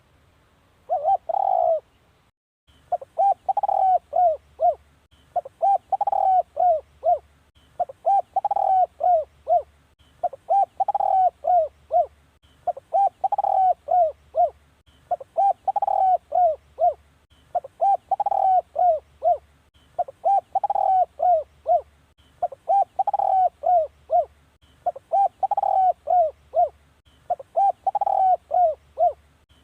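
Spotted dove cooing: the same phrase of about five coos, repeated steadily about every two and a half seconds. It is a looped luring call (decoy call) for drawing in wild spotted doves.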